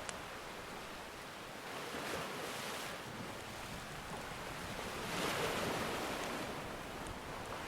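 Ocean surf washing in steadily, swelling with a wave about two seconds in and a bigger one about five seconds in, with a few faint crackles of a wood fire.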